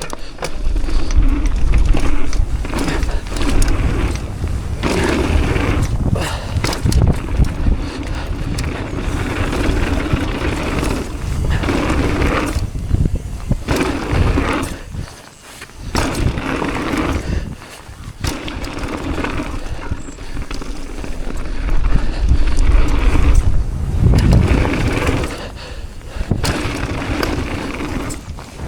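Mountain bike riding fast down a rough dirt trail, heard from a rider-mounted action camera: tyres rumbling over the ground with the chain and frame rattling over bumps, and wind buffeting the microphone. The noise eases off briefly about halfway through.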